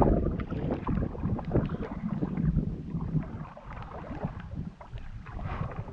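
Small knocks and handling noises in a canoe over a low rumble of wind on the microphone, easing off about three and a half seconds in.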